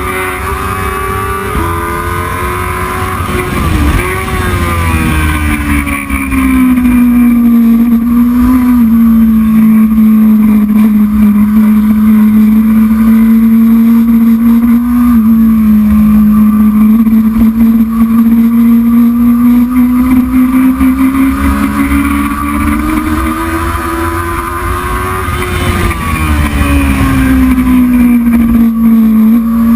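Racing motorcycle engine running hard, its pitch falling about four seconds in, then holding nearly steady for a long stretch before rising and falling again near the end.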